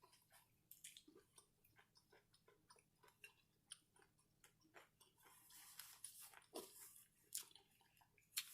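Faint, close-up chewing of fried seafood, with many small wet clicks of the mouth.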